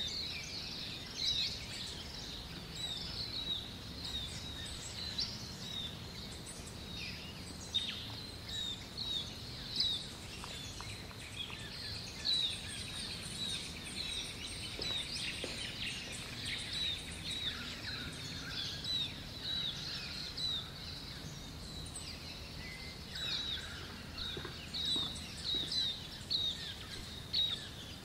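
Birds chirping around the house: many short, high chirps repeated over and over, over a steady background hiss.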